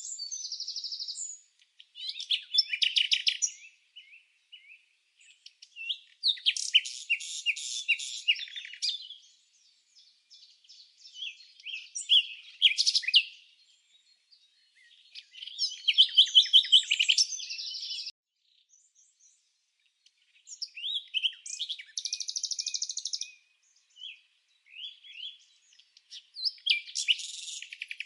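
Songbird singing: phrases of rapid high chirps and trills, each lasting about two to three seconds, separated by short silent gaps.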